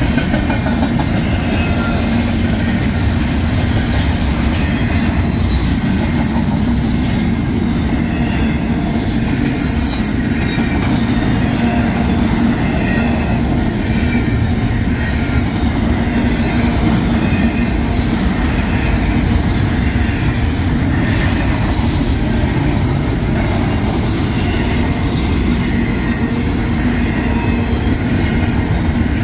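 Intermodal freight train's container cars rolling steadily past: a loud, unbroken noise of wheels on the rails.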